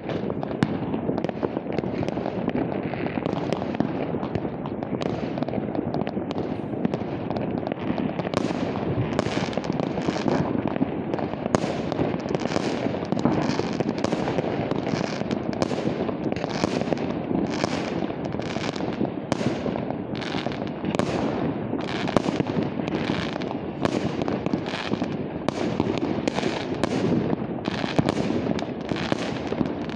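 Many New Year's Eve fireworks and firecrackers going off across the city: a continuous dense rumble of bangs and crackles. From about a quarter of the way in, sharper bangs stand out, coming every second or so.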